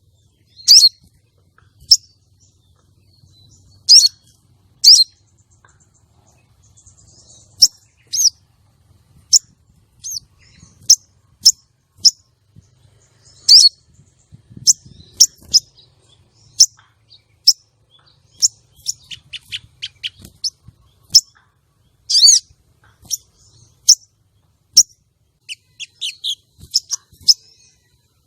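Female sogon sunbird giving short, sharp, high chirps one at a time at irregular intervals, with a quicker run of chirps about two-thirds of the way through. It is a female's call of the kind used to rouse male sogons into breeding condition and song.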